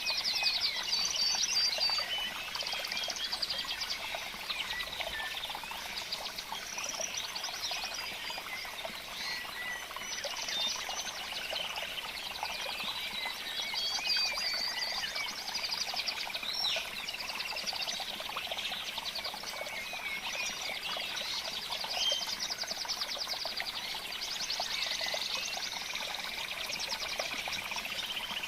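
A dense chorus of many birds chirping and trilling high-pitched, overlapping and unbroken, with short rising and falling whistles now and then.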